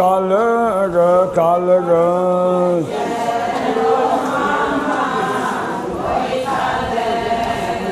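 Adi Ponung chant in call and response: a single lead voice holds a drawn-out sung line for about three seconds, then a chorus of many voices answers together in unison for the rest.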